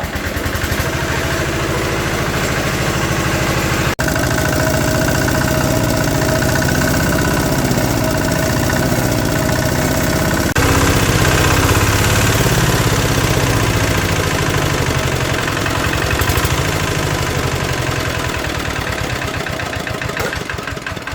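Hand-crank-started engine of an old two-wheel walking tractor (máy cày) catching right at the start and running steadily. It is a small single-cylinder diesel, and it gets a little louder about ten seconds in.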